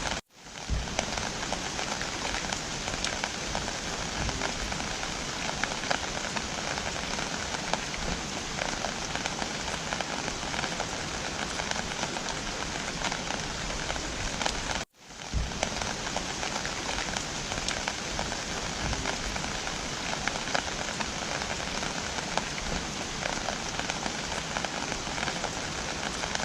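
Steady rain falling, with a patter of drops through it. It cuts out abruptly for a moment about fifteen seconds in, then carries on.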